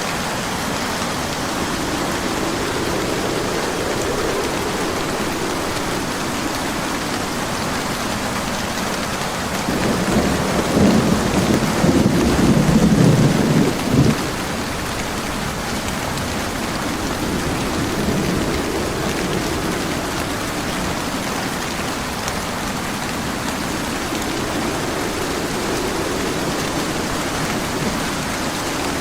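Steady rain falling, with a low rumble of thunder that swells about ten seconds in and cuts off suddenly about four seconds later.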